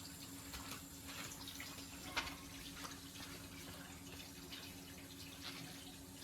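Faint water running or splashing, with scattered light clicks and knocks over a steady low hum.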